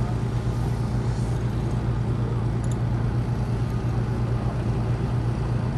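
Modified tractor-pulling engine running loud and steady at a constant pitch, cutting off suddenly at the end.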